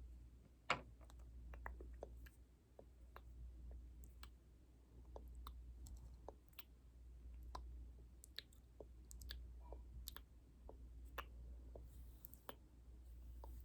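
Soft, irregular clicks and taps close to the microphone, one or two a second, the loudest just under a second in, over a low steady hum.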